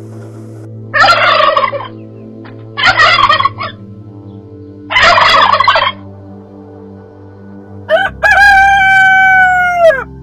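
Farm fowl calling: three short harsh calls, then a rooster crowing once for about two seconds near the end, the crow falling in pitch as it ends.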